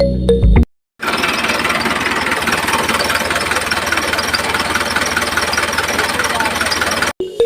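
A small motor running steadily with a fast, even rattling buzz for about six seconds, after a short stretch of background music that cuts out.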